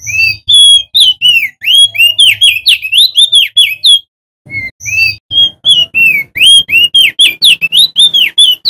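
Male opior jambul (crested white-eye) singing loud, fast strings of clear whistled notes. Each note slides down or up. The song comes in two runs of about four seconds each, split by a brief pause.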